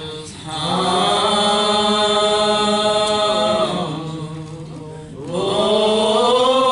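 Church singing: voices holding long, drawn-out notes, easing off about four seconds in, then starting a new phrase that slides up in pitch.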